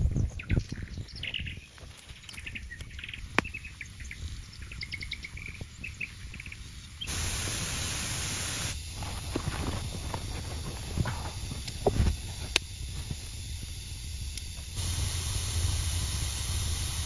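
Birds chirping in the forest during the first few seconds, with scattered knocks and clicks throughout. A steady hiss starts suddenly about seven seconds in and lasts under two seconds, then returns near the end.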